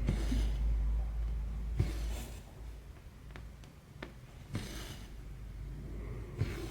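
Cross-stitch thread drawn through fabric in four soft swishes, about one every two seconds, each beginning with a light tap of the needle, with a few small clicks between them over a steady low hum.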